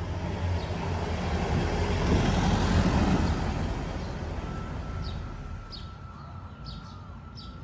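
A road vehicle passing by: a rumble that swells to its loudest about two to three seconds in, then fades away.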